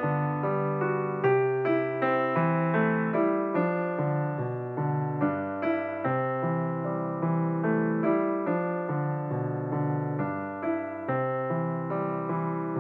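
Slow background piano music, notes struck about twice a second and left to fade.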